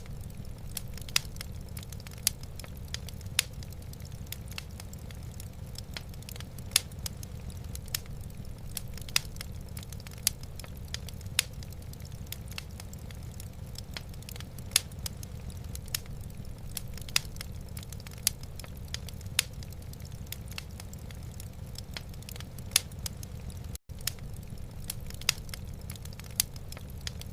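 Wood fire burning in a fireplace, crackling with frequent irregular sharp pops over a steady low rumble. The sound cuts out for an instant about 24 seconds in.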